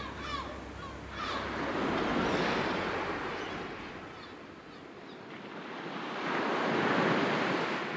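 Sea surf washing on a shore, in two slow swells: one builds about two seconds in, and another rises near the end, with a lull in between.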